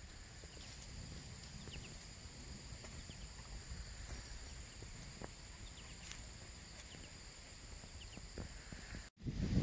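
Faint outdoor ambience: a low rumble under a steady high-pitched hum, with a few short, faint bird chirps scattered through it.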